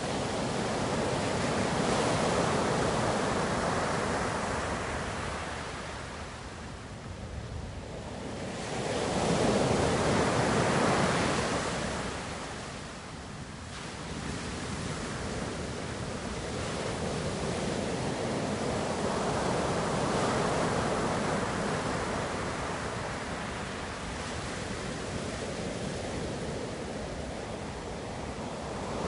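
Ocean waves breaking and washing on a shore, a steady surf noise that swells and ebbs, with the loudest surges a couple of seconds in and about ten seconds in and a softer continuous wash after about fifteen seconds.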